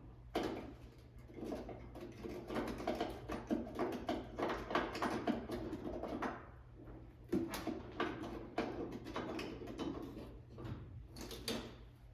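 Irregular clicking, scraping and rustling of metal parts being handled as loose bolts are started by hand into a car's trunk lid hinge, with a quieter stretch about six seconds in.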